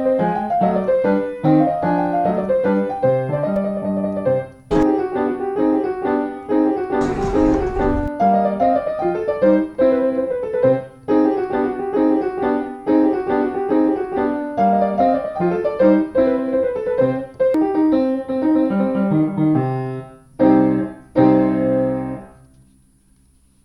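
Solo piano music playing a flowing melody with chords, ending on two final chords that die away near the end.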